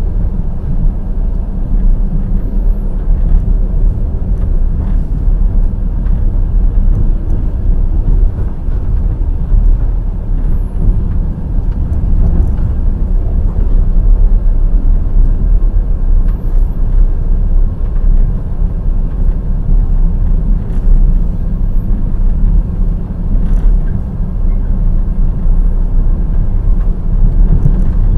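Wheels of a passenger express train running over the rails: a loud, steady low rumble with occasional faint clicks.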